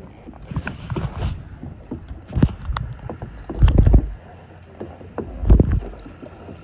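Kayak paddle strokes splashing in the water, one every second or two, several with a dull thump.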